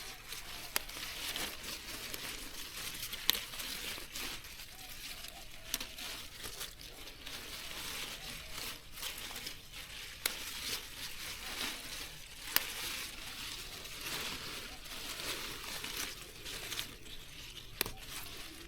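Continuous rustling and crinkling of leaves and stems being handled and torn by hand, with occasional sharp snaps.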